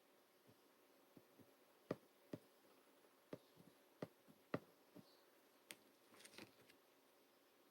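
Slime being handled by hand, giving off faint, irregular clicks and small pops, with a short crackly run of them about six seconds in.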